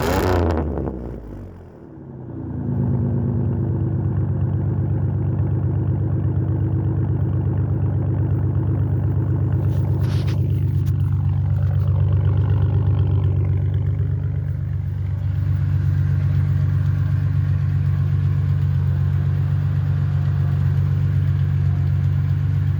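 Ford F-150's 4.2-litre V6 running through a muffler-deleted exhaust. The engine comes down off a rev in the first two seconds, then settles into a steady, deep idle drone, with a brief click about ten seconds in.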